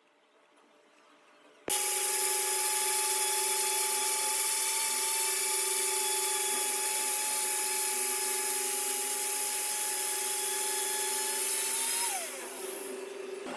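Lathe running and cutting: a loud, steady hiss with a constant whine that starts abruptly. Near the end the whine falls in pitch and the sound quietens as the machine slows.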